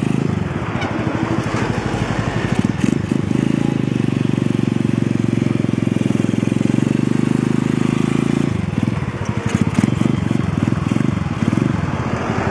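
Motorcycle engine running, holding a steady note for several seconds, then turning choppy and uneven from about two-thirds of the way through.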